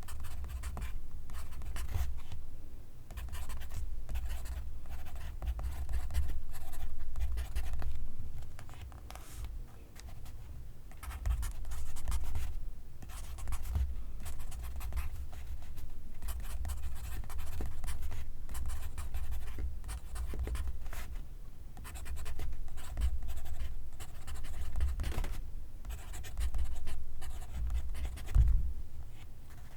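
Pencil writing on paper: graphite scratching in continuous, uneven strokes, with a brief lull around a third of the way in.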